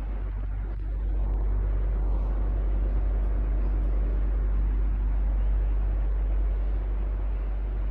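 Electric fan running steadily: an even rush of air over a deep, constant hum, growing slightly louder about a second in.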